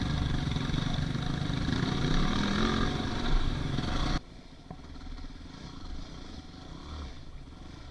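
Dirt bike engine running on the trail, its revs climbing about two seconds in. About four seconds in the sound cuts off abruptly to a much quieter low engine rumble.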